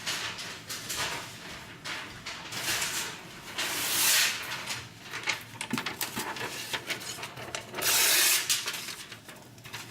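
Sheet of paper rustling and swishing in irregular bursts, with small clicks and knocks between; two longer, louder swishes come about four and eight seconds in.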